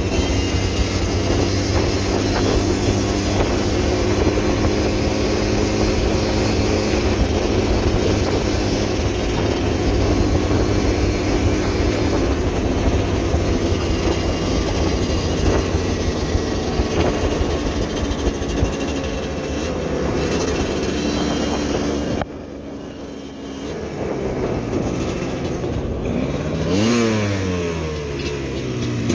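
Motorcycle engine running steadily under load over a rough, rocky trail, with rattling road noise. About two-thirds of the way in the sound drops suddenly, and then the engine revs up and down several times.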